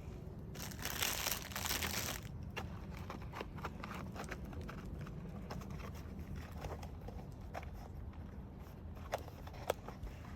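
Crinkling and rustling as a paper-covered juice-carton bird feeder is handled and fat balls are pushed in through its holes. A dense burst of rustling comes about a second in, followed by scattered small taps and clicks, with two sharper clicks near the end.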